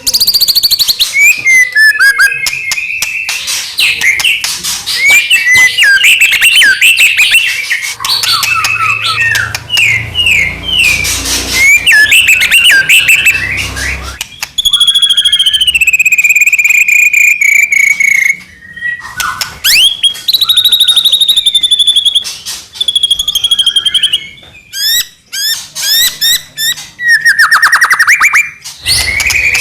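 White-rumped shama in full, loud song: a long run of varied phrases, with rapid chattering trills and clicks mixed with clear sliding whistles. About halfway through comes a long whistled note that falls slowly in pitch.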